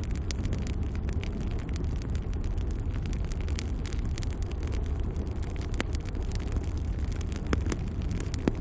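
Wood logs burning in a fireplace: a steady low roar of flames with frequent small crackles and pops, and a few sharper pops near the end.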